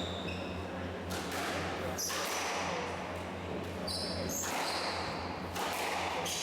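Squash rally: a series of sharp smacks as the ball is struck by the rackets and hits the walls, with short high squeaks of shoes on the court floor. A steady low hum runs underneath.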